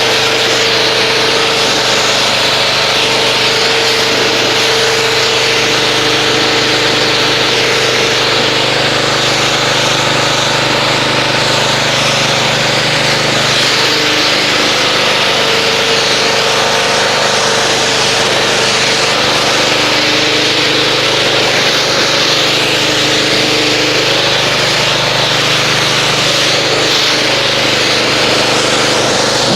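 Pressure washer running steadily, its motor humming under the hiss of a water spray rinsing car-wash foam off a car's paint.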